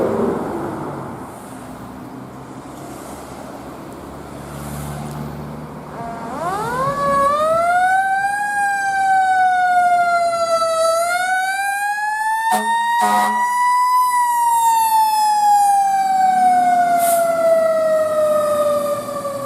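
A vehicle engine rumbles quietly, then about six seconds in a fire truck siren winds up sharply. It keeps wailing, gliding slowly up and down in uneven sweeps, and starts rising again near the end. A brief sharp burst cuts through the wail about two thirds of the way in.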